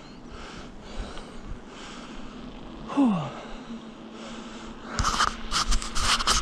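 A cyclist's breathing at the microphone while riding, ending in a run of loud puffs of breath. About three seconds in there is one short sound falling in pitch.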